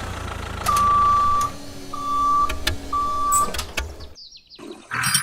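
Three steady electronic beeps, each held for well under a second and spaced about a second apart, over a low rumble with a few clicks.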